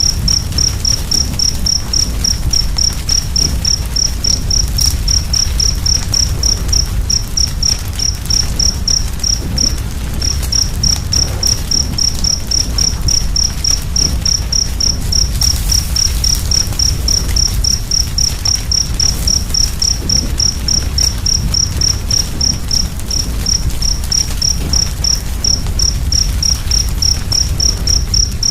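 A cricket chirping steadily, a little over three high chirps a second with one brief pause, over the low rumble of a crackling fire.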